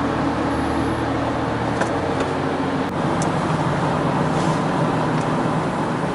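Steady car driving noise: a low engine hum under tyre and road noise.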